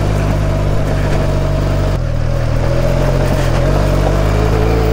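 Benelli TRK 502's parallel-twin engine running at low speed on a gravel track, its note shifting about two seconds in and easing lower near the end.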